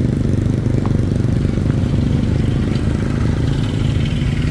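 Heavy diesel engine running steadily with a deep rumble.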